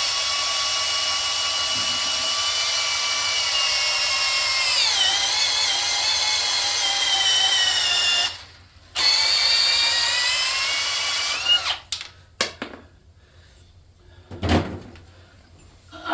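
Battery drill boring into the aluminium block of a Chevy LS V8 through a drill guide. Its motor whine dips in pitch under load about five seconds in, stops briefly around eight seconds, runs again, then stops, and a few knocks follow. The bit is dragging in gummy aluminium, which the machinist suspects has been overheated and gone soft.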